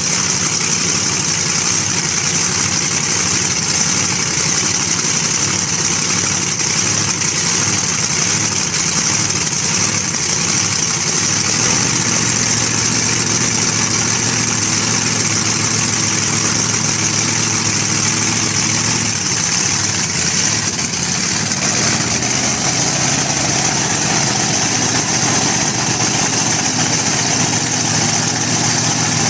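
Supercharged hot-rod engine with open exhaust headers idling steadily and loudly; its note shifts slightly about two-thirds of the way through.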